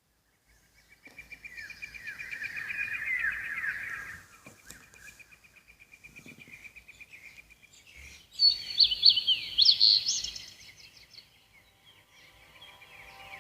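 Birds chirping and trilling: a run of quick falling chirps, then a long steady trill, then louder high chirps about nine seconds in.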